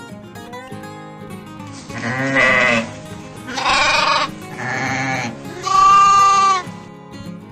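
Bleating, four loud calls in a row with short gaps, over background acoustic guitar music.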